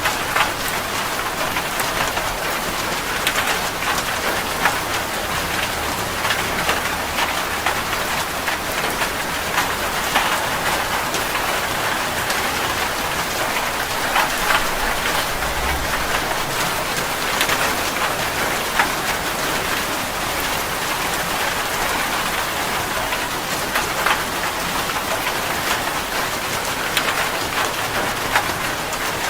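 Heavy rain falling steadily on a metal roof, a dense, even hiss dotted with many sharp drop hits.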